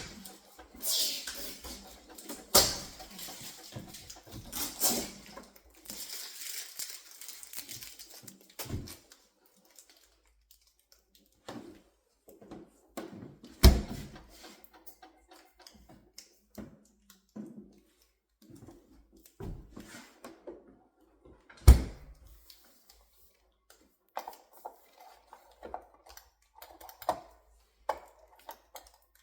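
Handling noises from unpacking a refrigerator: scattered rustles and light knocks, with sharp thuds about 3, 14 and 22 seconds in.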